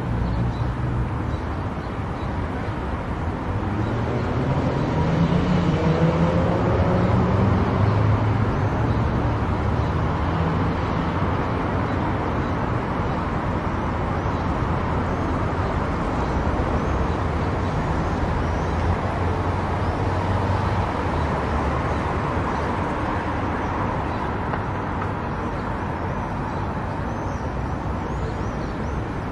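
Car driving at highway speed: steady road and tyre noise, with an engine note rising in pitch about four to eight seconds in.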